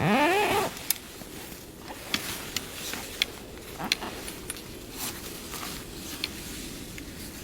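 A short rasp under a second long with a sweeping, falling pitch, then scattered light clicks and small knocks.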